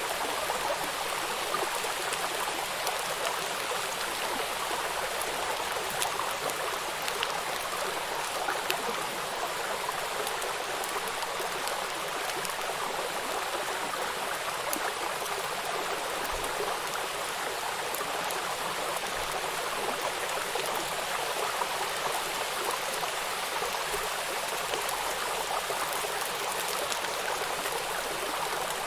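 Steady rain falling on a river: an even hiss of rainfall with many individual raindrops pattering on the water, over the sound of the flowing river.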